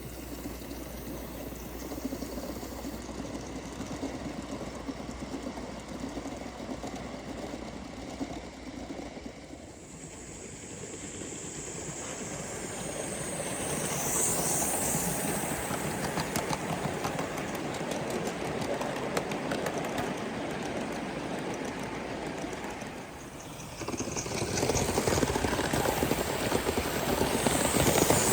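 Gauge 1 live-steam model locomotive running along the track, getting louder as it draws near, with brief high squeals about halfway through and again near the end.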